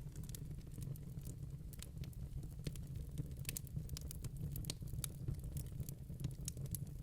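Wood burning in a fireplace: irregular crackles and small pops from the logs, several a second, over a steady low rumble.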